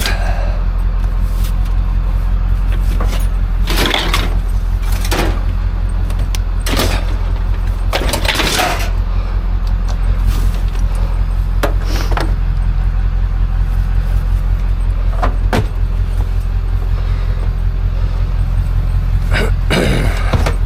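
Steady low engine drone of a vehicle running, with irregular knocks and rattles over it.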